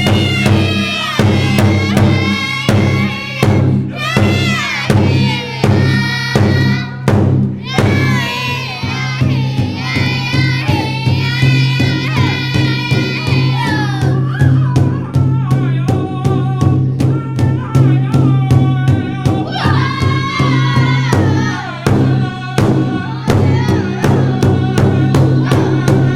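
Group singing with wavering voices over a steady, evenly spaced drumbeat.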